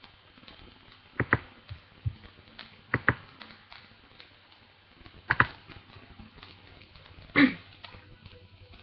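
A few faint clicks and taps, several coming in quick pairs, with a short breathy vocal sound near the end.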